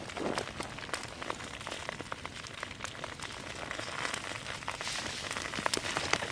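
Campfire crackling and popping: a steady hiss with many sharp, irregular pops.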